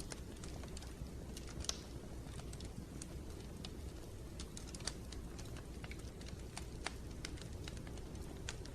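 Wood fire in a fireplace crackling: irregular sharp pops and snaps, a few louder ones, over a low steady rumble.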